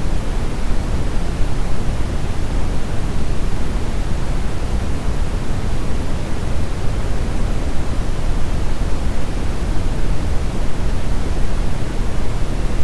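Steady brown noise: a constant, even rumbling hiss weighted to the low end, with no changes or events.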